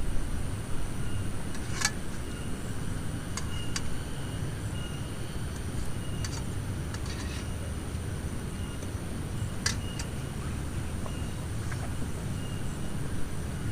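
Heavy rain and wind as a steady low rumble, with a few sharp clicks of drops striking near the microphone, about two seconds in, twice around three and a half seconds, and near ten seconds.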